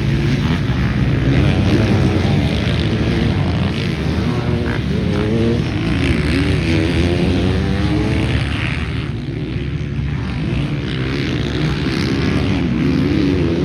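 Motocross dirt bike engine revving, its pitch rising and falling again and again as the rider works the throttle and gears.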